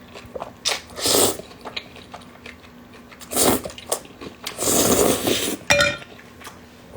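A person eating close to the microphone: several loud slurping or sucking bursts, the longest lasting about a second, with small mouth clicks and chewing between them and a short voiced sound near the end.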